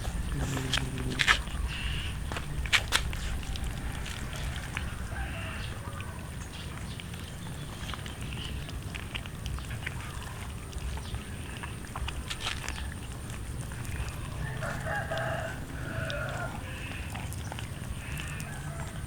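Animal calls, among them a longer call about three-quarters of the way through, with a few sharp clicks near the start.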